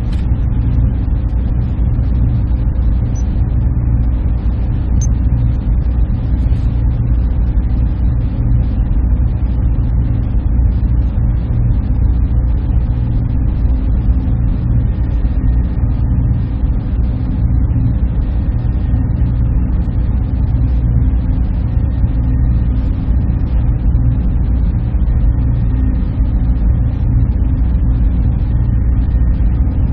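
Server room machinery running: a steady, unbroken drone, heaviest in the low end, with faint steady hum tones above it.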